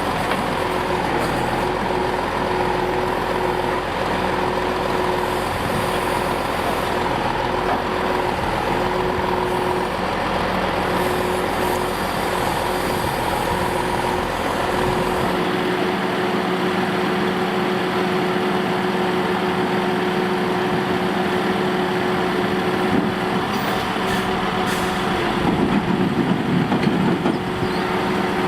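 Scania G490 truck's 13-litre six-cylinder diesel running steadily at held revs, with a steady hydraulic whine from the loader crane it powers. The deepest rumble drops away about halfway through, and there is a short rough, clattering patch near the end.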